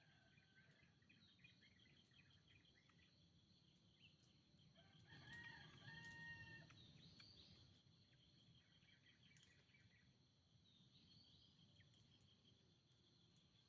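A green junglefowl crows once, about five seconds in, in a short call of a second and a half. Insects trill steadily in a rapid high pulse throughout, and small birds chirp now and then.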